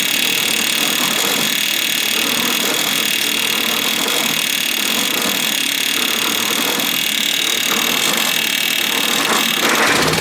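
1954 Ford NAA tractor's four-cylinder engine being cranked by its starter motor, a steady grinding whine, until the engine catches near the end and settles into a low, even idle.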